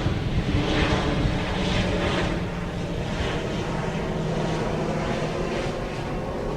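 Airliner engines running loudly as the aircraft passes the airfield: a steady rushing noise with a low hum and a hiss that swells and fades.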